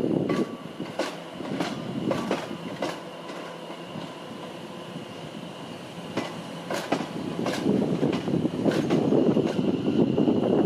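Train passing on the line, its wheels clicking over rail joints in irregular groups, over a rolling rumble and a steady high tone.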